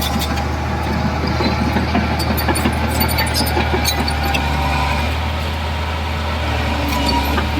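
Diesel engine of heavy earthmoving machinery running steadily, with scattered metallic clanks and rattles over it.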